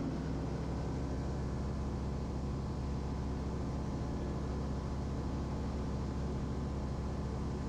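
Van's RV-12's Rotax 912 flat-four engine and propeller running steadily in cruise, a muted, even drone with a low hum, heard inside the cockpit.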